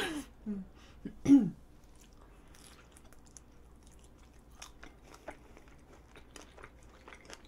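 Soft chewing and biting of a strawberry chapssaltteok (glutinous rice cake with a whole strawberry inside), heard as faint, scattered mouth clicks and smacks. About a second in, a short vocal sound from the eater is the loudest thing.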